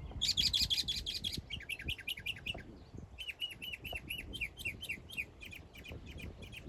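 A songbird singing a string of quick repeated chirps, switching to a different phrase every second or two, each phrase repeated several times over.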